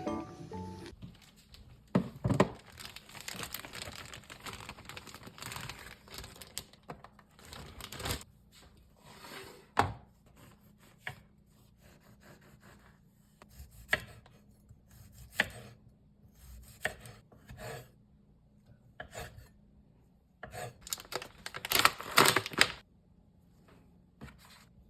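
Kitchen handling sounds: irregular clicks and light knocks with rustling, as of food and packaging being handled, with a dense run of clicks near the end.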